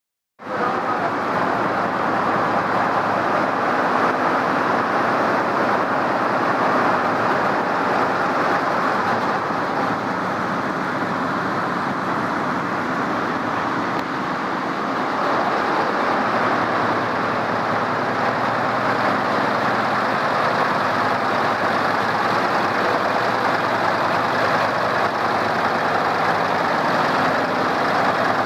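Embroidery machines running, a dense, steady mechanical clatter that starts abruptly about half a second in and holds at an even level.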